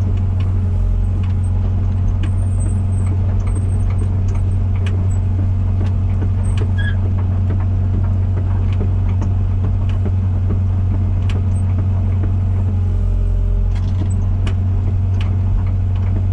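Komatsu PC120-6 excavator's diesel engine running steadily while the machine is worked, with scattered clicks and clanks from the machine throughout.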